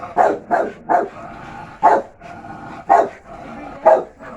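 Dog barking: about six loud barks, three in quick succession at the start, then single barks about a second apart.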